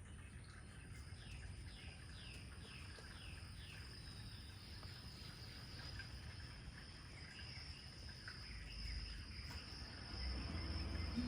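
Nature ambience: a steady high insect drone, with a bird singing a quick run of repeated slurred notes in the first few seconds. Music comes in near the end.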